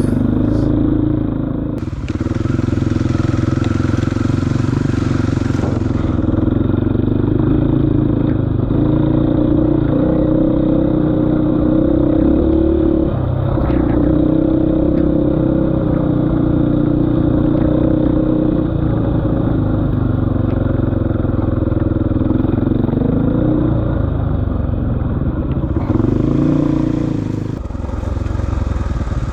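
KTM 450 EXC enduro motorcycle's single-cylinder four-stroke engine running under way, its revs rising and falling as the throttle is worked. The revs drop and pick up again near the end.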